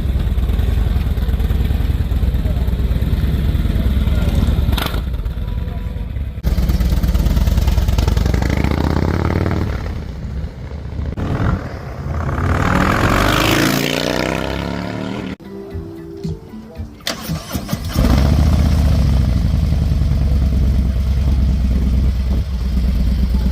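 Harley-Davidson V-twin with a Malparidos aftermarket exhaust running loudly, revved with rising sweeps in the middle. It drops to a quieter, pulsing stretch a few seconds later and comes back to a loud, steady low run near the end.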